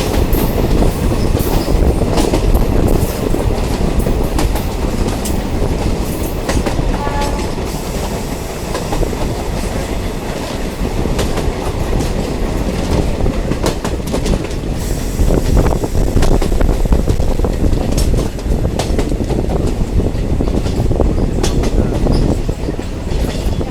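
Diesel multiple unit train running along the track, with a steady rumble and the repeated clatter of wheels over rail joints. A brief high tone sounds about seven seconds in.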